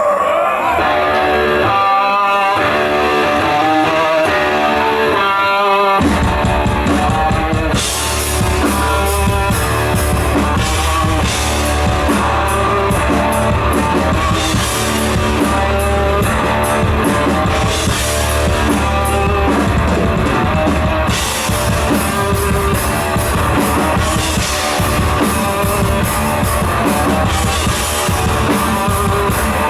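Thrash metal band playing live, loud: an electric guitar riff alone, then bass and drums come in about six seconds in, with cymbals joining shortly after.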